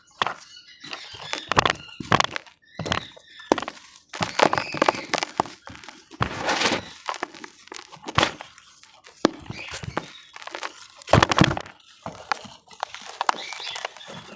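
Damp cement being crumbled and broken apart, a quick irregular run of cracks, crunches and dull thunks as chunks break and fall.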